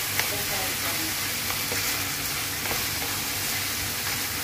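Diced chicken breast, bell pepper and tomato paste sizzling in a stainless steel pan as a wooden spatula stirs them. A steady frying hiss, with a few sharp clicks of the spatula against the pan.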